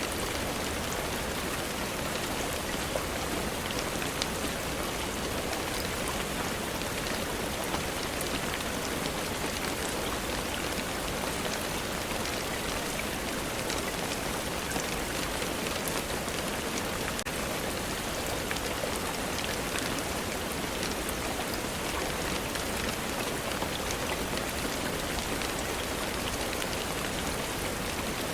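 Steady rainfall, an even hiss with scattered small ticks of drops.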